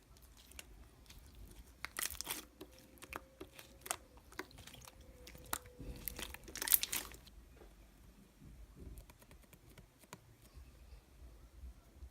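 Close crunching and crinkling with many small crackly clicks, louder in two bursts about two seconds in and near seven seconds in.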